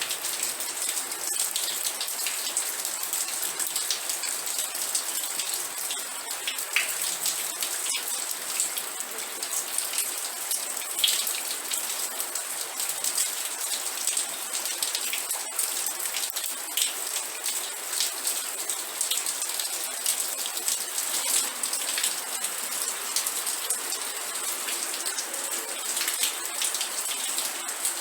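Steady rain falling on a surface, an even hiss with many sharp, close drop ticks.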